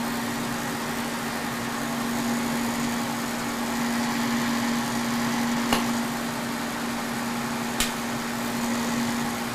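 Kearney & Trecker 2HL milling machine, set up as a lathe, running under power with a steady hum. Two short sharp clicks come a little past the middle.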